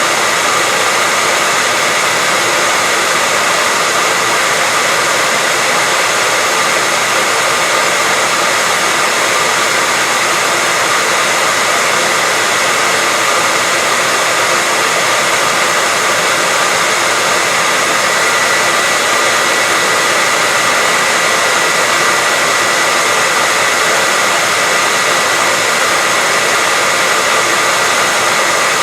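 Hair dryer running steadily: a constant airy rush with a faint steady whine on top, unchanging throughout.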